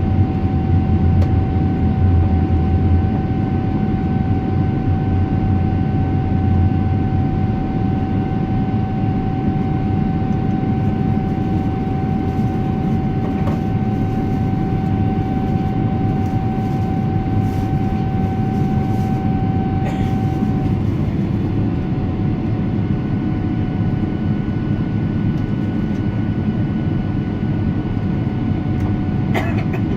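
Steady cabin drone of a Boeing 777-300ER, its GE90 engines and airflow heard from inside the cabin. A thin steady whine runs over it and stops about two-thirds of the way through, and there are a few faint clicks near the end.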